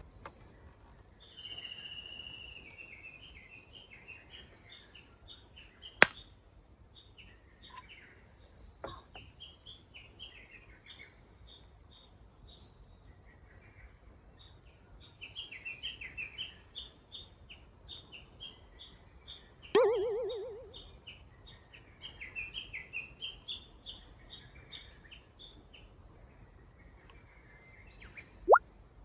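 Birds chirping and singing in short runs of high notes, with a couple of sharp clicks and a brief low buzzing sound about two-thirds of the way through.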